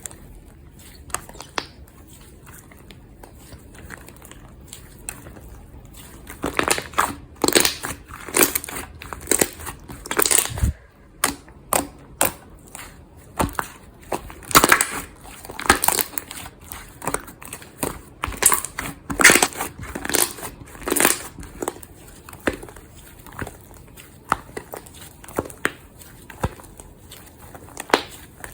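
Slime being squeezed and pressed by hand: soft clicks at first, then, from about six seconds in, a run of loud, irregular crackly pops and squelches.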